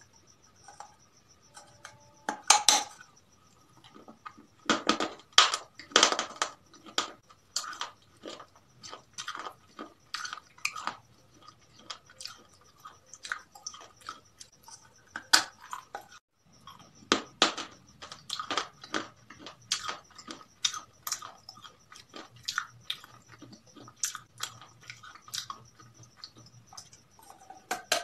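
Close-up chewing and crunching of crispy fried chicken and french fries, with irregular crisp crunches and a brief pause about two-thirds of the way through.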